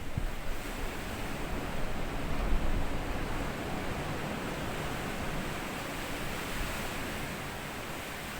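Sea waves washing up on a sandy beach: a steady rushing wash, with a heavier low rumble in the first few seconds that settles into a softer, even hiss.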